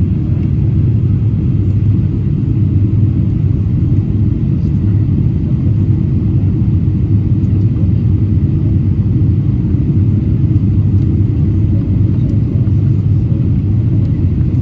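Steady low rumble of a Boeing 777-300ER, unchanging throughout.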